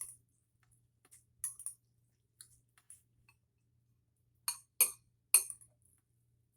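Scattered light clicks and clinks of an eating utensil against a dish of sauced noodles, with a few louder sharp clicks about four and a half to five and a half seconds in.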